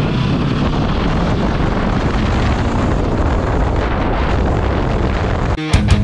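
Wind buffeting the microphone over a motorcycle's engine and road noise while riding, a steady dense rush. Near the end it cuts off suddenly into rock music with electric guitar.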